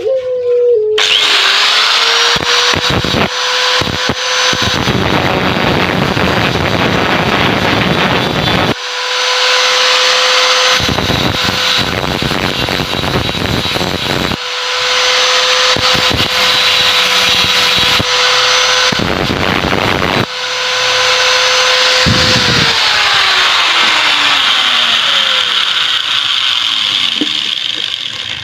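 Angle grinder cutting into a refrigerator compressor's steel shell: a high, steady motor whine, with three spells of harsh grinding while the disc bites the metal. Near the end the tool is switched off and the whine falls away as the disc spins down.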